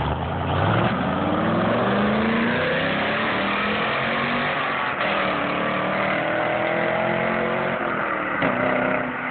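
Chevrolet Camaro SS V8 with a Borla exhaust and K&N intake accelerating. The engine note rises quickly over the first couple of seconds, then climbs more slowly, and drops suddenly near the end before running steady.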